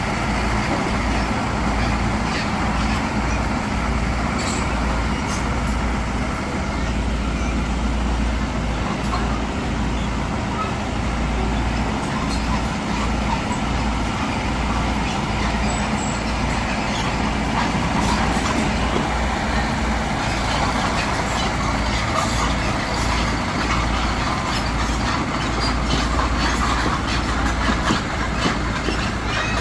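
Heavy diesel earthmoving machinery running steadily under load, with scattered light clicks and clanks.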